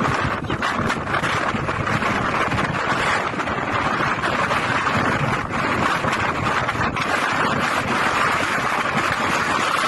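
Storm-force wind blowing hard across the microphone: a loud, steady rushing noise.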